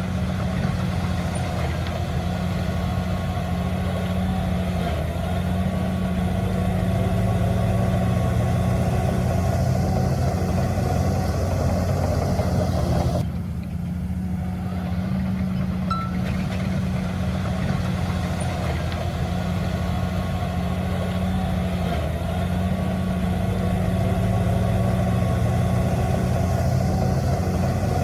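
Heavy diesel engine of earthmoving machinery running steadily, with an abrupt change in the higher sounds about halfway through.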